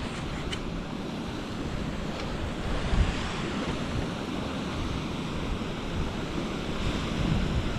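Steady rush of a moorland waterfall and its stream, with wind buffeting the microphone and a brief thump about three seconds in.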